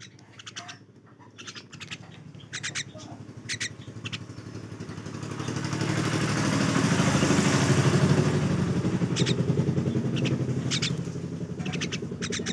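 A common myna giving short chirping calls, a few each second in clusters. Under them a passing motor vehicle's engine hum swells to its loudest about halfway through and then fades.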